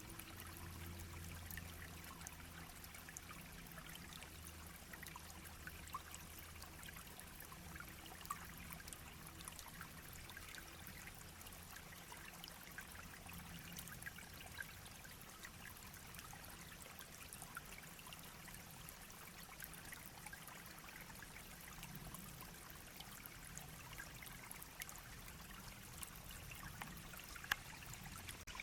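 Shallow brook babbling and trickling steadily, faint, with many small splashes.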